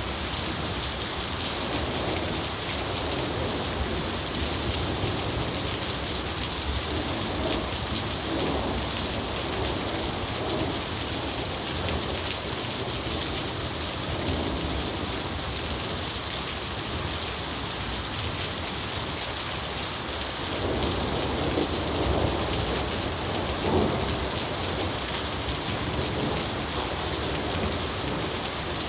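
Steady rain falling, with rolling thunder rumbling twice, about a quarter of the way in and again past two-thirds, the second spell the stronger.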